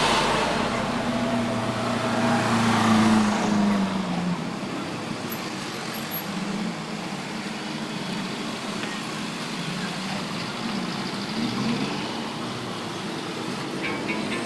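A motor vehicle engine running and passing for the first few seconds, then steady road traffic noise.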